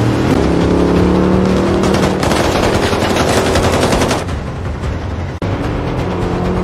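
Rapid automatic gunfire over the engine of a heavy armored truck pulling away. The shooting stops about four seconds in, leaving the engine running.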